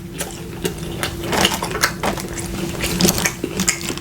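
Close-miked eating sounds: a person chewing, with irregular wet smacks and crunches, over a faint steady hum.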